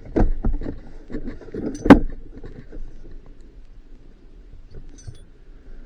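Plastic dash trim being handled and pressed into place in a truck cab: a run of clicks and knocks, the loudest knock about two seconds in, then quieter rustling and light ticks.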